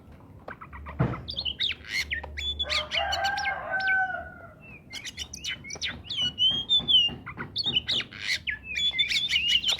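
Oriental magpie-robin (kacer) singing energetically: a fast run of varied whistled notes, trills and chirps. A lower, drawn-out call comes about three seconds in, and there is a single knock about a second in.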